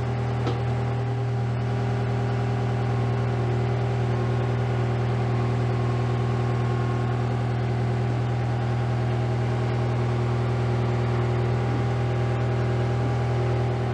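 Skid steer's engine running at a steady idle, an even, unchanging drone while it holds the load.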